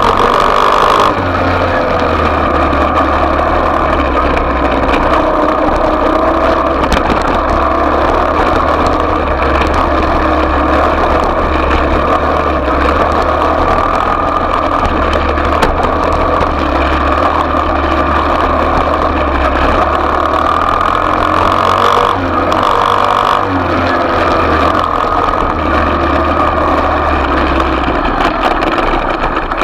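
Small off-road motorbike engine running continuously, its revs wavering up and down.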